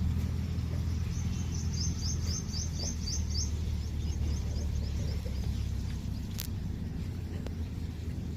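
A small bird singing a quick run of high chirps, about five a second, for a second and a half starting about two seconds in, with fainter scattered chirps around it, over a steady low rumble.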